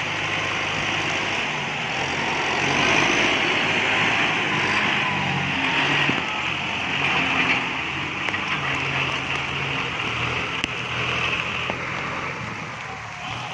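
Kubota MU5702 tractor's four-cylinder diesel engine running under load, its speed rising and falling as it works, over a steady hiss of rain.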